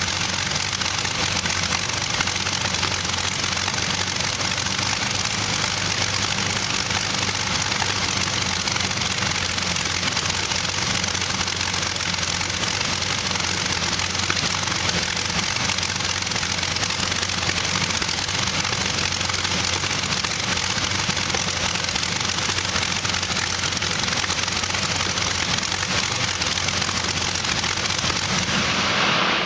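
Allison V-1710 V12 aircraft engine, fuelled by LPG, running at a steady speed, a loud and even exhaust roar that holds level throughout.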